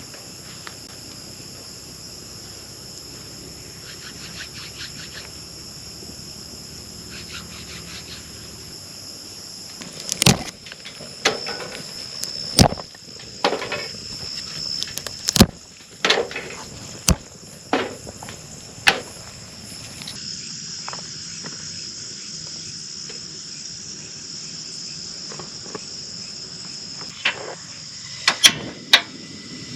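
Steady high-pitched chorus of night insects such as crickets. A string of sharp knocks or taps cuts through it from about a third of the way in, and a few more come near the end.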